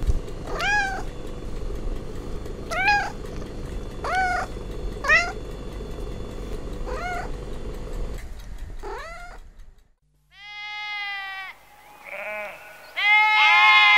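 A cat meowing over and over, about six short meows that rise and fall in pitch, the last one rising. After a brief hush, sheep bleat: one bleat, a short higher one, then a long, louder bleat near the end.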